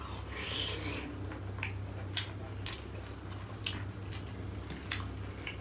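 Two people chewing mouthfuls of steamed momos, with wet chewing and mouth smacks and a scattering of short sharp clicks, over a steady low hum.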